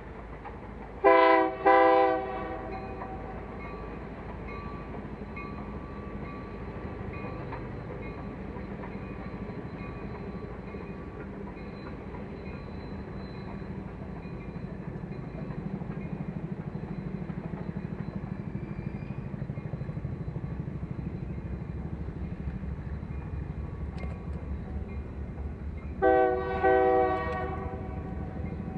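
A train's horn sounds two short blasts about a second in and two more near the end, with the steady rumble of the train running between them.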